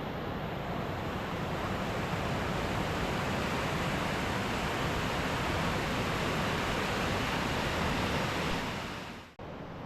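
Rushing whitewater of a class III river, a steady dense hiss and rumble. It fades and drops out sharply near the end, then comes back a little quieter.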